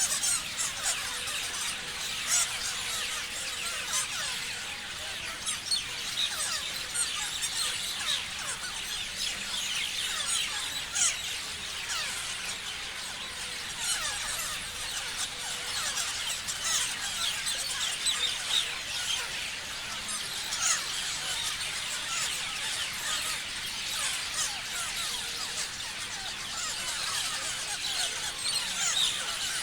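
A flock of parrots chirping, many short high calls overlapping without pause into a dense, steady chatter.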